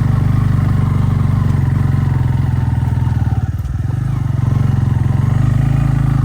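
Motorcycle engine running steadily as it is ridden, easing off briefly about three and a half seconds in.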